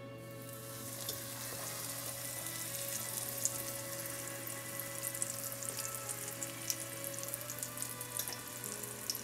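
Breaded chicken cutlet frying in hot oil in a non-stick pan: a dense sizzle with fine crackles that starts as the cutlet is laid in. Soft background music plays underneath.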